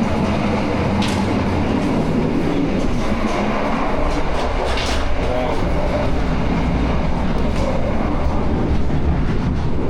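Argo Bromo Anggrek passenger train running at speed, heard from inside the carriages: a steady rumble of the wheels on the rails, with a few sharp clicks and clatters.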